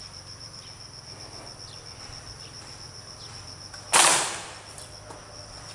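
Insects trill steadily and rapidly in the background. About four seconds in there is one loud, sudden burst of noise that fades within half a second.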